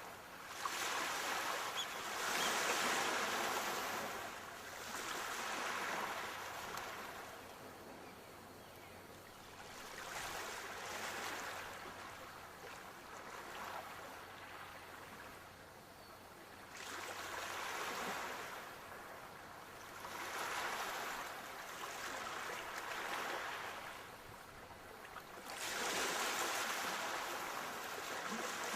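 Sea waves breaking, the surf swelling and fading in repeated surges every few seconds.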